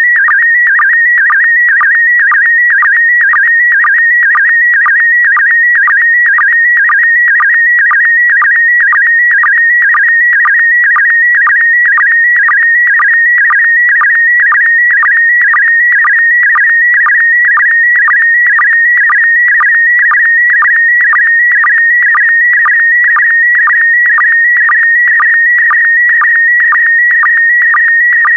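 Slow-scan television image signal in PD120 mode: a continuous warbling tone near 2 kHz, broken about twice a second by short lower-pitched sync pulses as each pair of picture lines is sent.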